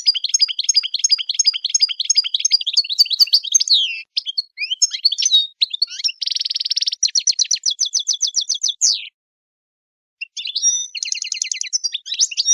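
A songbird singing a fast, varied song of high chirps and rapid trills, breaking off for about a second near the end before starting again.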